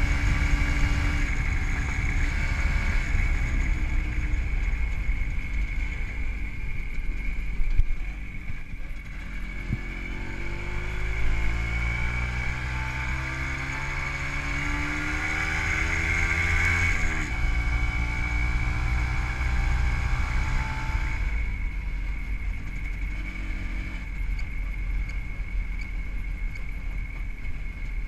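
WSK 125's single-cylinder two-stroke engine, fitted with CDI ignition and a Dell'Orto PHBG carburettor, running under way. About a third of the way in the revs climb steadily for several seconds as it accelerates, then drop off suddenly; later they fall away as the throttle is closed.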